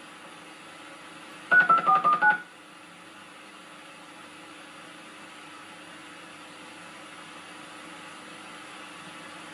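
A quick run of about six telephone touch-tone (DTMF) beeps, each a short two-note tone, lasting under a second, over a steady tape hiss and hum.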